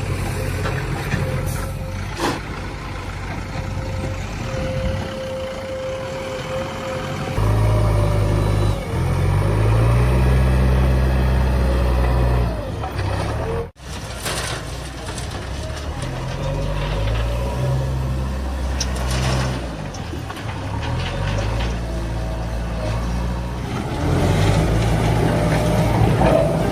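Heavy diesel machinery engine running and revving up and down under load, with a steady whine above it. The sound drops out abruptly for an instant about halfway through.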